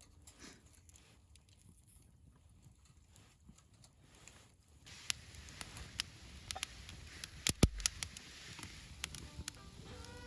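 Quiet at first, then about five seconds in, food starts sizzling in a pan with crackling and scattered sharp clicks. There is one louder knock about halfway through.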